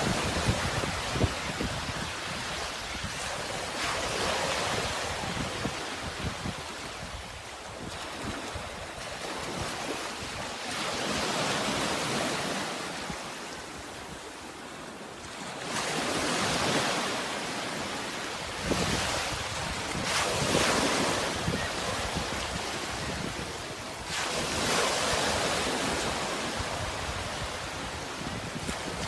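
Sea waves washing in and drawing back, a steady hiss of surf that swells and fades every few seconds.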